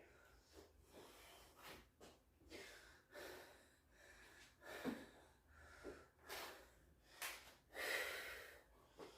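A man breathing hard and fast, a string of faint, noisy breaths in and out coming about once a second or quicker, heavy breathing from the exertion of a deadlift workout.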